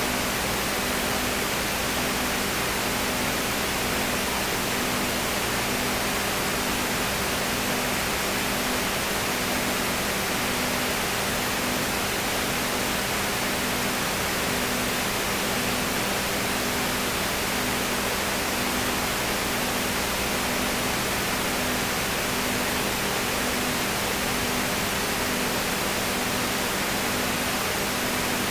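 Steady, unchanging hiss with a low hum underneath that pulses about once a second.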